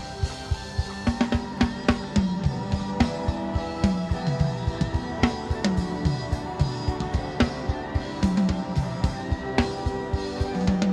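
Live church worship band playing between sung phrases: a drum kit keeping a quick steady beat with kick and snare, over held keyboard chords and sliding bass notes.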